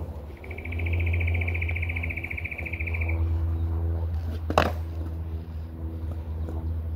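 Skateboard wheels rolling with a steady low rumble, and one sharp clack of the board hitting the ground about four and a half seconds in. A high, fast buzzing trill from wildlife sounds over the first three seconds.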